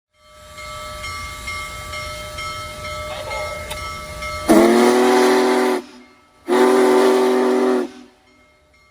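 Sound-fitted model train running with a steady hum, then giving two long whistle blasts about a second apart, each a loud multi-note tone.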